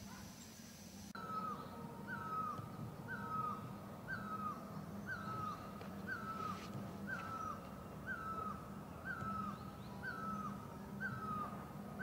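A bird calling the same single note over and over, about once a second, starting about a second in; each note is held briefly and then drops in pitch.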